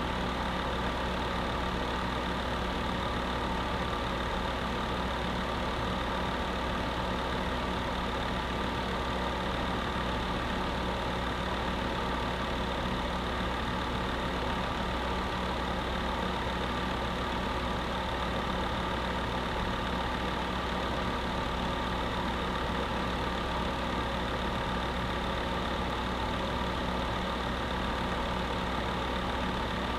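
Space heater running steadily: an even rushing noise with a constant hum under it, unchanging throughout.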